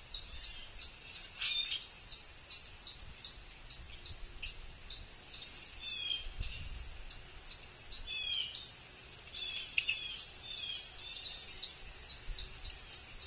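Several songbirds calling around feeders: a steady run of short, high chip notes about three a second, with louder slurred chirps and calls mixed in.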